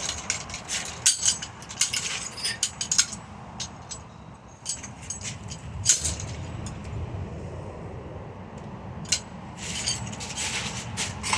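Loose metal pieces clinking and rattling as they are handled, in irregular sharp clicks that come in clusters, with a low rumble underneath.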